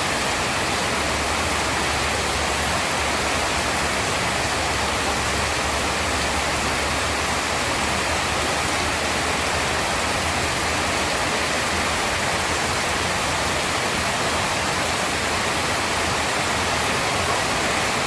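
Heavy rain pouring steadily, an even unbroken hiss, with a low rumble underneath through the first two-thirds.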